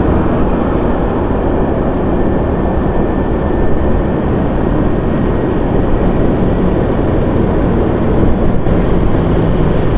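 Steady low rumble of a motorcycle on the move: engine and riding noise with no break or change.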